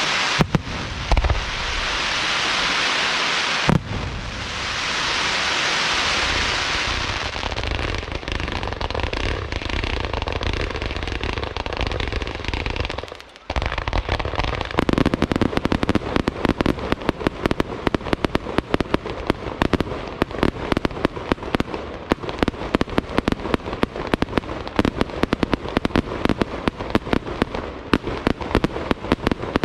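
Fireworks display: a loud hissing crackle with a few sharp bangs for the first several seconds, then, after a brief drop a little before halfway, a dense rapid barrage of many bangs a second.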